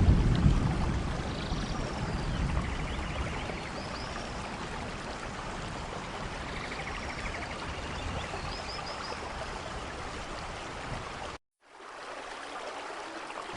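Steady rainforest rain hiss, with a low rumble fading over the first second or so and small birds chirping now and then. About eleven seconds in, the sound cuts out completely for a moment and comes back a little quieter.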